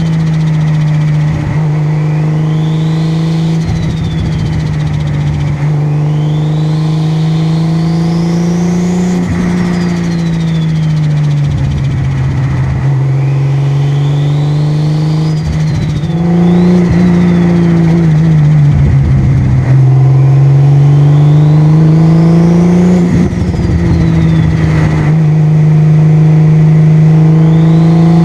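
A car engine running at fairly steady cruising revs, its pitch drifting gently up and down. A high whistle rises and then falls away about five times over it.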